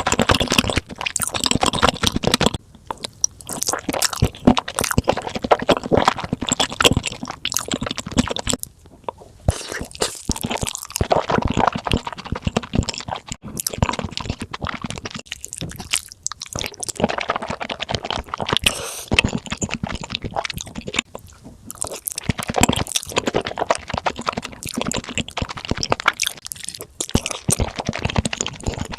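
Close-miked chewing of pizza: crunching bites and wet chewing in runs, with short pauses between mouthfuls.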